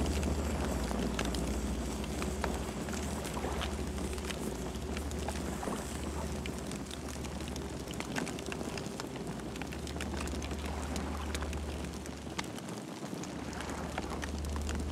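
Campfire burning, with frequent small crackles and pops over the steady low rumble of the flames.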